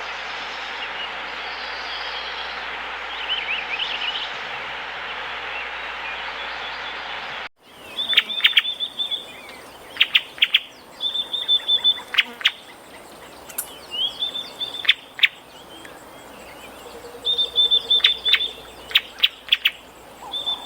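A steady rushing hiss with faint bird chirps in it, cut off abruptly about seven seconds in. Then birdsong: repeated high, slightly wavering held notes and quick sharp chirps in short runs, recurring every few seconds.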